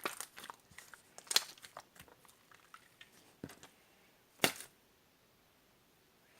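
Clear slime being squeezed and stretched by hand, giving sticky clicks and small crackling pops, with two louder pops, one about a second in and one a little past four seconds. The last couple of seconds are nearly still.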